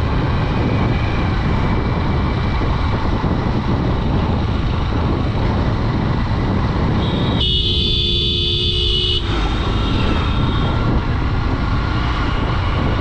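Steady wind rush and engine noise of a Honda Dream 110 motorcycle on the move, with a vehicle horn blaring once for about two seconds around the middle.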